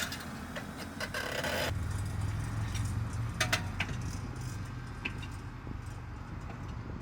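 A 2008 BMW X5 rear wheel grinding and rattling, metal on metal, over a steady low rumble as the vehicle tries to move, with sharp clicks about halfway through. The sound comes from broken parking-brake parts loose inside the rear brake rotor, catching on it as the wheel turns.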